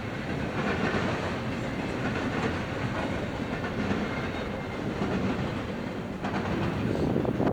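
Freight train cars rolling past, with a steady rumble and the clickety-clack of wheels over the rail joints.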